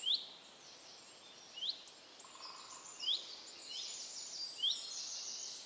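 Bird ambience: one bird repeats a short rising chirp about every one and a half seconds, and fainter twittering from other birds fills in from about halfway through.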